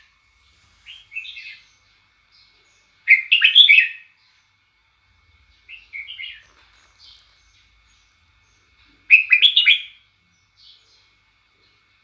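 A songbird singing short phrases of several quick notes, one phrase about every three seconds, the loudest about three and nine seconds in. A faint steady high tone runs underneath.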